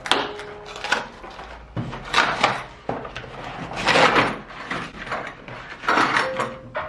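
Household objects being handled: a series of short scraping and knocking sounds, about one a second, with faint soft background music.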